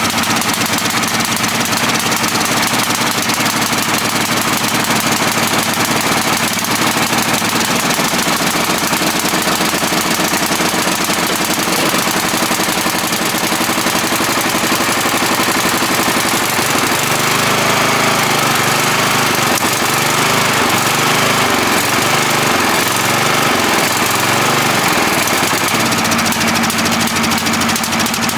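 Cub Cadet 1170 riding mower's 17.5-horsepower OHV engine running, its speed wavering up and down in the last third. The owner finds it running flooded and smoking, and judges that the carburetor needs a rebuild kit.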